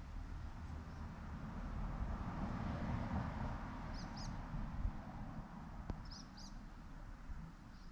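Steady rushing noise with a low rumble, swelling a little in the middle, while a small bird gives short high chirps in pairs, about four seconds in and again about six seconds in. A single faint click comes just before the second pair.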